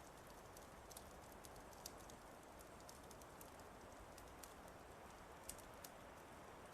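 Fireplace fire crackling faintly: scattered sharp pops and ticks, several a second, over a soft steady hiss.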